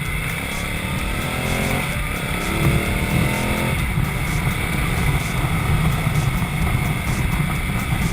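Ducati Multistrada motorcycle engine accelerating under way, its pitch rising for about three seconds and then dropping suddenly near four seconds in, as at an upshift. Heavy wind rumble on the mounted camera's microphone runs underneath.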